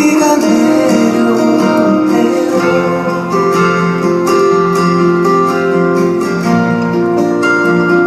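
A voice sings a gentle ballad line over acoustic guitar. After about three seconds the guitar carries on alone with plucked and strummed chords.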